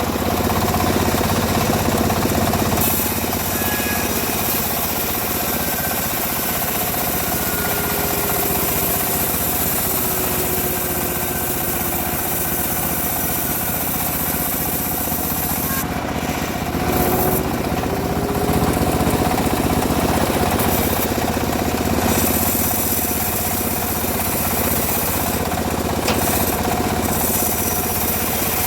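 Engine of a homemade band sawmill running steadily, with faint whines that slide slowly in pitch.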